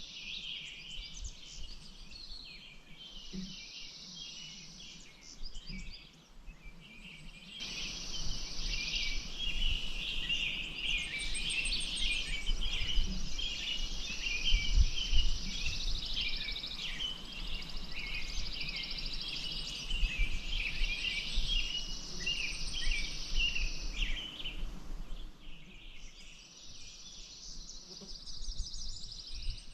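A chorus of many small birds chirping and twittering together over a steady high buzz that starts and stops several times. From about eight seconds in until about twenty-five seconds, a rushing of water lies under them.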